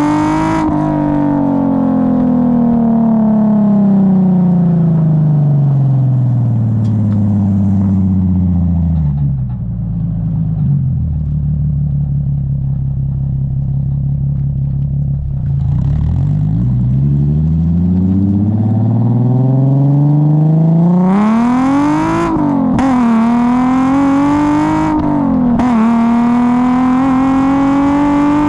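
Infiniti G37S coupe's 3.7-litre V6 through a custom 3-inch single catback exhaust, driving. The engine note falls as the car slows and holds a low, steady rumble for several seconds. It then climbs as the car accelerates, rises and drops twice around gear changes, and settles into a steady run near the end.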